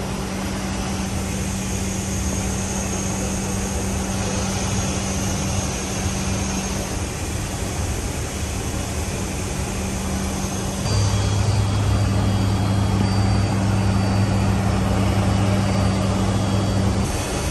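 Steady hum of a C-130J Super Hercules' four turboprop engines and propellers, with noise over it. About eleven seconds in it grows louder and a deeper hum joins, then it drops back shortly before the end.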